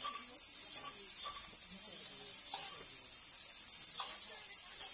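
Hot oil sizzling steadily on a large flat iron griddle as sliced onions and tomatoes fry, with a metal spatula knocking on the plate about four seconds in.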